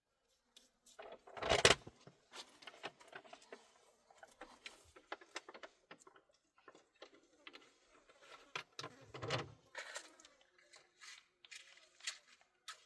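A run of scattered clicks and knocks from objects being handled, with two louder thuds, one about a second and a half in and another about nine seconds in.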